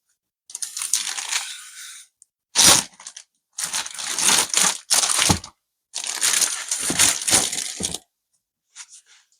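Four bursts of crackling, rustling noise from hands working over the laptop, each lasting one to two seconds with short gaps between them.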